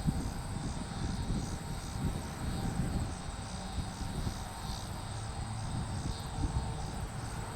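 Insects chirping in a steady pulsing rhythm over an uneven low rumble.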